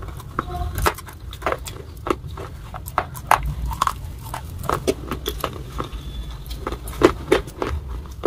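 Close-miked chewing of baked clay and slate pieces with wet clay paste: irregular crisp crunches and wet mouth clicks, one every fraction of a second, over a low steady rumble.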